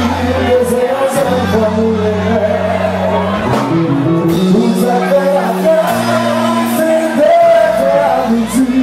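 Live Haitian konpa band playing, with a singer's voice over held bass notes and cymbal hits, and shouts from the crowd.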